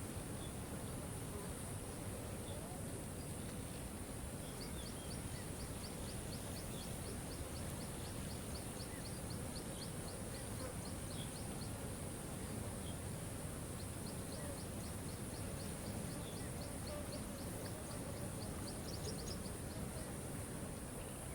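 Steady rush of a waterfall, with a bird's rapid trill of even ticks, about five a second, running for several seconds twice, and scattered single chirps.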